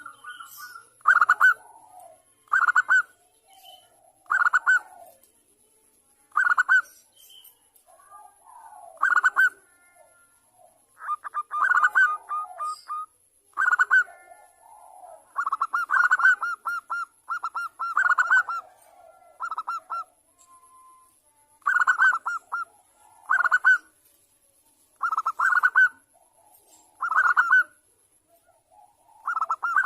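Zebra dove (perkutut) cooing: short, rapidly pulsed phrases repeated about every one to two seconds.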